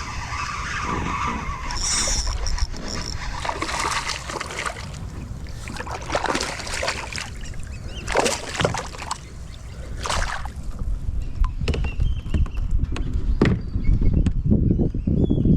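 Low rumbling on the microphone with irregular rustles, knocks and clicks of handling aboard a kayak.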